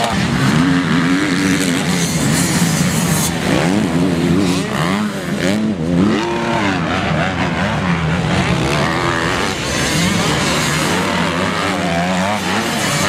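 Motocross bike engines revving up and down over and over as the riders work the throttle around the track, at times more than one bike at once.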